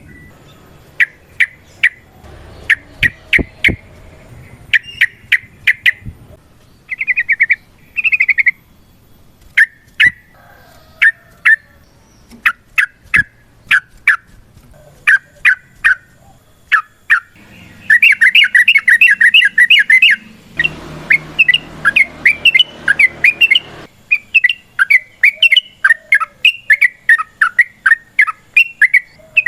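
Yellow-vented bulbul (trucukan) calling: sharp chirps in short clusters, breaking into long, fast rolling chatters about 18 seconds in and again over the last few seconds.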